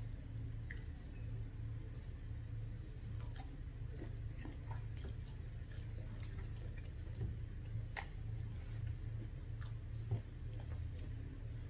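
Close-miked chewing and wet mouth sounds of a person eating shrimp, with scattered short clicks, over a steady low hum.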